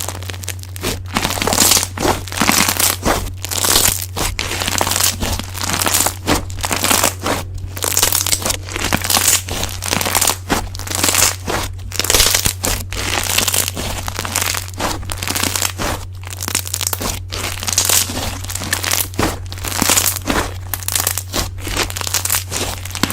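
Slime being squeezed and poked by hand: an irregular run of sharp squishing noises, several a second, over a steady low hum.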